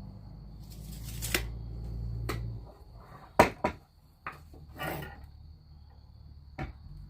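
Handling noise. A low rumble lasts for the first two and a half seconds, then comes a series of sharp knocks and clatters, the loudest about three and a half seconds in.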